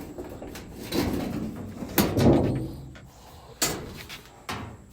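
A dryer's sheet-metal back panel being pulled off and handled: scraping and clanking metal, with the loudest clank about two seconds in and more knocks near the end.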